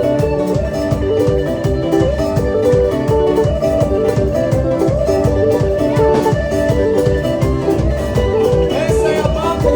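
Band music with a plucked guitar melody repeating over a steady drum beat.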